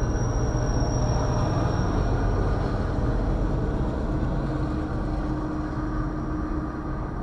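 A freight train rolls past with a steady low rumble: the trailing diesel locomotives give way to double-stack intermodal container cars. A faint high whine fades out in the first couple of seconds, and the rumble eases slightly near the end.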